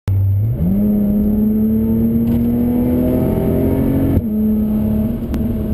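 Audi B8 S4's supercharged 3.0-litre V6 with an APR aftermarket exhaust, heard from inside the cabin, pulling hard under acceleration on track. The engine note jumps up about half a second in and climbs steadily in pitch, then breaks briefly about four seconds in before running on.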